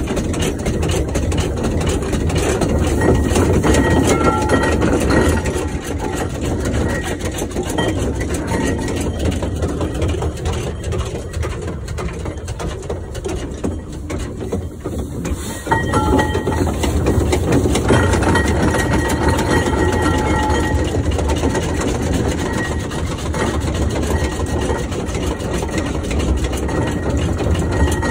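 1914 Fowler steam showman's engine running as it is driven, a continuous mechanical sound that suddenly gets louder a little past halfway.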